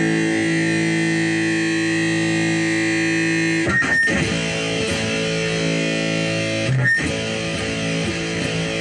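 Electric guitar played through a Movall Jumpspace overdrive pedal: long sustained chords, struck anew twice, about four seconds in and again near seven seconds.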